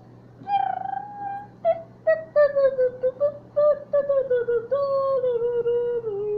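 A child's high voice singing a wordless sing-song tune, a string of short held notes that step gradually downward in pitch.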